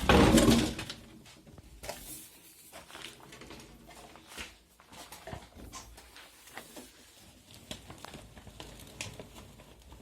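A loud bump right at the start, then scattered light clicks and rustling from someone moving about and handling things among debris.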